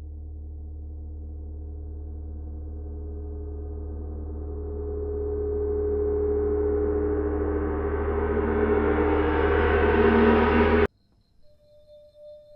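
Film-score riser, a swelling gong-like drone: a steady low hum under a cluster of ringing metallic tones that grows louder and brighter for about eleven seconds, then cuts off suddenly. Faint, soft bell-like tones come in near the end.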